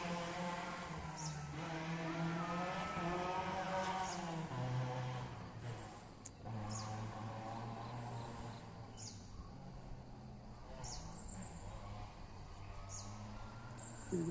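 Rally car engine at a distance, revving up and falling back through gear changes, then running on at a steadier pitch as it passes.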